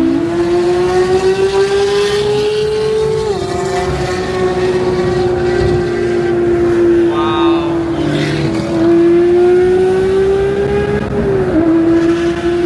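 Porsche 992 GT3's naturally aspirated flat-six running at high revs under hard acceleration, its pitch climbing steadily and then dropping sharply at an upshift about 3 s in. It climbs again and shifts once more near the end.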